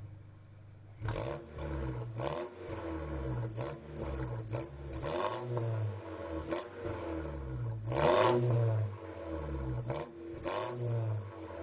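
Audi A4 2.0T's turbocharged four-cylinder, with an APR stage 2 tune and a resonator-delete exhaust, idling cold and then revved repeatedly in short blips, about eight times, each rising and falling, the loudest about eight seconds in. Sharp cracks come with the revs: backfiring, which the owner puts down to the extra fuel the ECU sends at low temperature.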